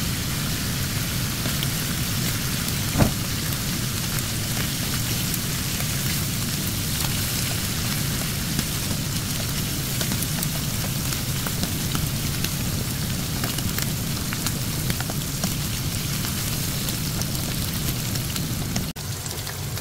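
Sliced smoked duck sizzling and spitting in its rendered fat in a frying pan, a steady dense crackle, with a sharp click about three seconds in, typical of metal tongs knocking the pan as the slices are turned.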